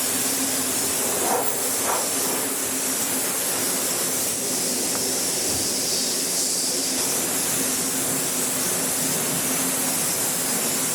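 Car wash equipment running with a steady, loud hiss and a constant low hum underneath.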